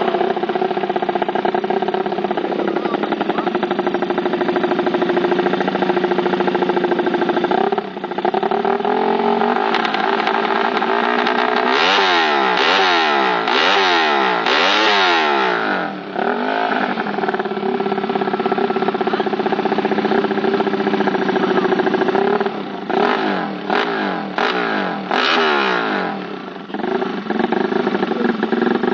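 Suzuki Satria FU motorcycle's single-cylinder engine, built to 200cc drag spec, running loud at a fast idle and blipped on the throttle: a run of about four quick revs rising and falling in the middle, and a few short sharp blips near the end.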